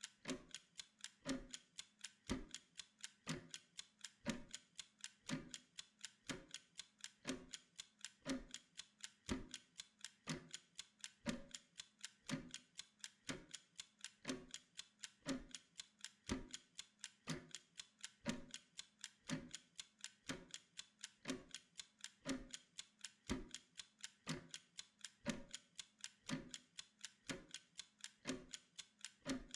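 Mechanical kitchen timer ticking: a rapid, even clockwork tick with a deeper, stronger tick about once a second.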